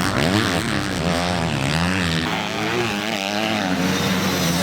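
Several motocross bikes racing, their engines repeatedly rising and falling in pitch as the riders rev and shift.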